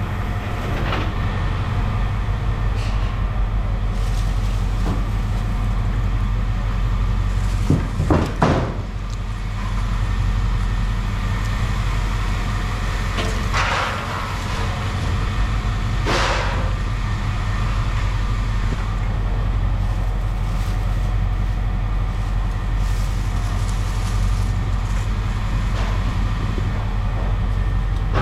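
Machinery running with a steady low rumble, while scrap metal clatters and clanks a few times. The loudest clatter comes about eight seconds in, with two smaller ones around 13 and 16 seconds in.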